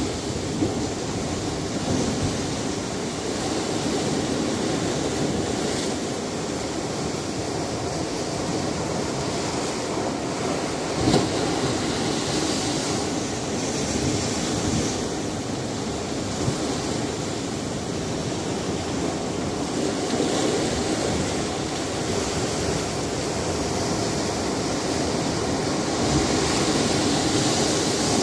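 Sea surf on a rocky shore: a continuous wash of waves with swells of hiss every few seconds and an occasional sharp splash against the rocks.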